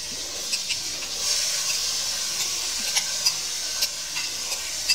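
Mutton and peas frying in a steel karahi, sizzling steadily, the sizzle growing louder about a second in as boiled turnips are spooned in, with scattered light clicks of a spoon scraping against a glass bowl and the pan.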